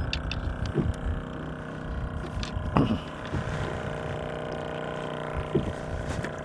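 Low rumble of wind and water on a fishing kayak, with a faint steady hum of several tones and a few short, light knocks.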